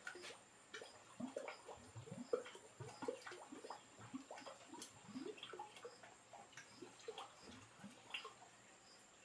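Faint water sounds: many small, irregular splashes and drips.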